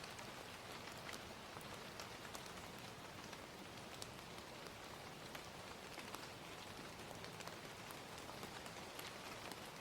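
Steady gentle rain with scattered sharp crackles and pops from a fire, the clicks irregular, a few a second.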